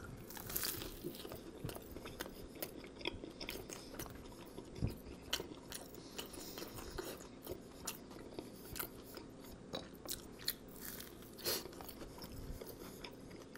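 A bite into a toasted sourdough grilled cheese with a crisp, crusty exterior, then close-miked chewing with irregular crunches.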